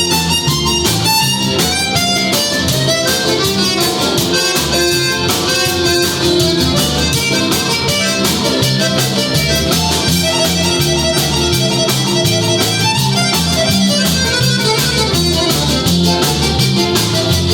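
Live band playing an instrumental break with no singing: guitar over a steady drum beat.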